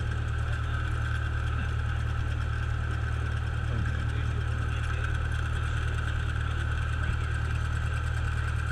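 Cessna's piston engine and propeller running steadily at low power on the ground, heard from inside the cockpit.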